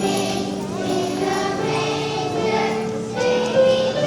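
Children's choir singing, holding long sustained notes that step from pitch to pitch.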